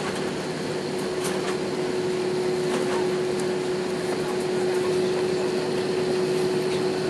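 Cabin noise inside an Airbus A319 taxiing after landing: an even rushing hiss of the idling engines and cabin ventilation, with a steady mid-pitched hum throughout.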